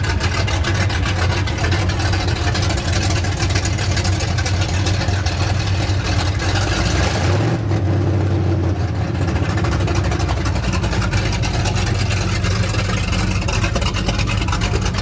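Classic Mopar muscle car engine running loud and steady close by, its low note shifting about halfway through.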